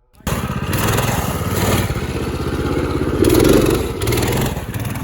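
Minibike's small engine running loud and close, revving up and down. The sound cuts in suddenly just after the start.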